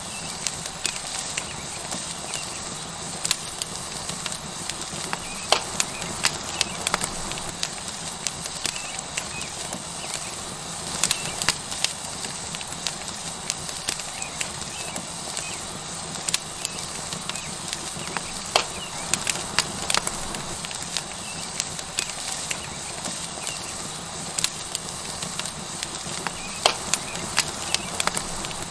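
Wood fire crackling with frequent sharp pops, over a steady sizzle from a tomahawk steak searing on a hot rock.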